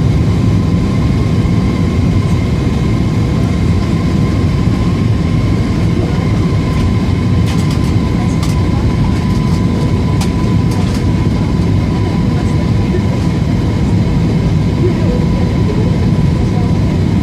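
Airbus A320 passenger cabin noise in flight: a loud, steady low rumble of the engines and airflow, with a faint steady whine running through it. A few faint ticks come about halfway through.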